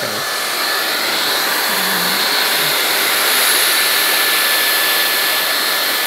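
Gamma IQ professional hair dryer blowing steadily through its concentrator nozzle onto hair on a round brush: a continuous rush of air with a thin, steady high whine, swelling slightly in the first second.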